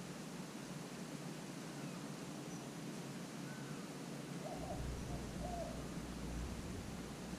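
A bird cooing once, a short phrase of about three low notes, about four and a half seconds in, over faint steady outdoor hiss; a low rumble comes up at the same point.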